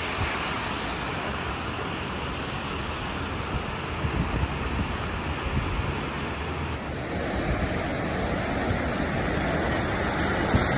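Steady rushing noise of heavy rain and flowing floodwater, changing in character about seven seconds in.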